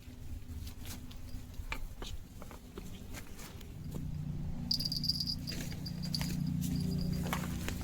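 Scattered light raindrop taps. About five seconds in, a high-pitched, broken chirping trill joins them.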